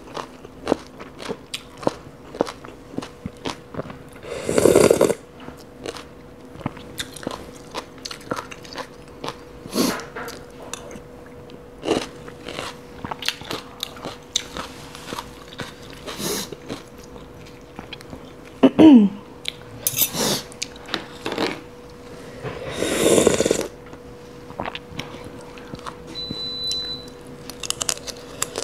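Close-miked chewing and crunching of green papaya salad, mixed with irregular clicks of a fork and spoon against the plastic tray. There are two longer, louder bites, about five seconds in and again past twenty seconds.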